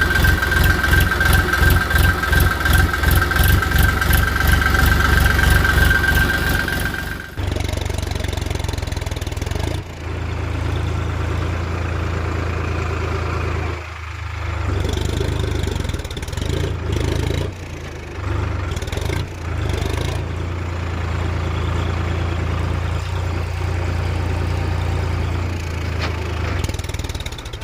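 Tractor-like engine sound: a rapid, even chugging with a steady high whine over it. About seven seconds in it switches abruptly to a steadier low hum that dips briefly a few times.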